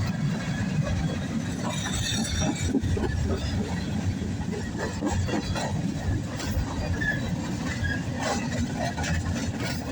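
CSX freight train cars rolling past with a steady low rumble.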